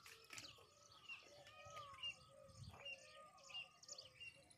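Faint bird chirps: short high notes repeating every half second or so, over near silence.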